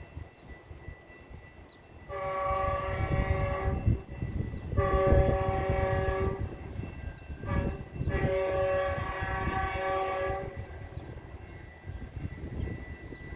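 Metrolink train's multi-note air horn sounding long, long, short, long: the standard signal for approaching a grade crossing. A low rumble of the moving train runs underneath.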